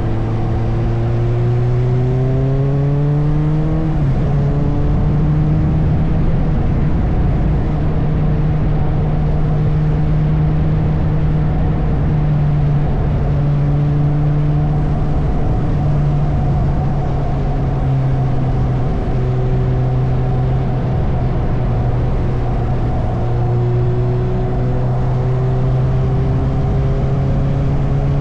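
Suzuki motorcycle engine pulling up through the revs, dropping in pitch at a gear change about four seconds in, then running steadily at cruising speed. It rises again slowly near the end, over constant wind and road rush.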